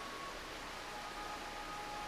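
Steady rushing hiss of a forest stream, with faint held high tones over it that change pitch about half a second in.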